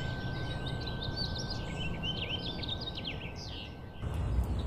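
Small birds chirping and twittering in many quick rising and falling notes over a steady background hiss. About four seconds in, the birdsong stops and a low rumble comes in.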